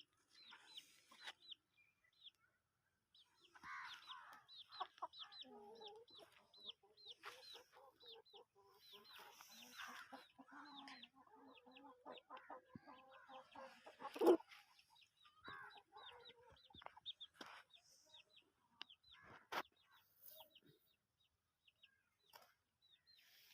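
Chickens clucking softly, with many quick, high, falling chirps throughout and a couple of sharp knocks, the loudest about halfway through.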